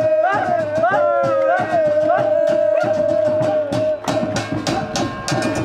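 Traditional welcome music: drums beaten in a fast, steady rhythm of about four to five strokes a second under a long, wavering sung note.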